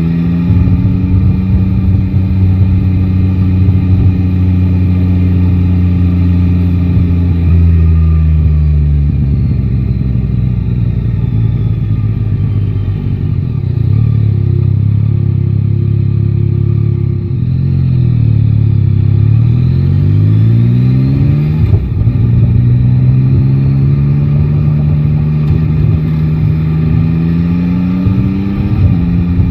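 Yamaha Tracer 9 GT's inline three-cylinder engine running under way. It holds a steady note, falls in pitch as the bike slows about a quarter of the way in, then climbs again as it accelerates, with a quick drop and rise a little past the middle.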